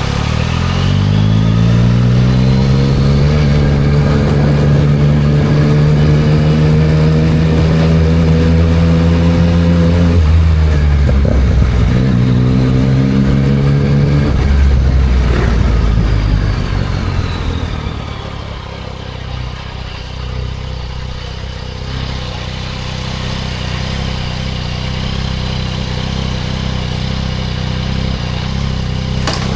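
2024 Yamaha MT-09 SP's three-cylinder engine through a Spark aftermarket exhaust, pulling hard with its note rising for about ten seconds, a brief break like a gear change, then easing off about halfway and settling into a lower steady run.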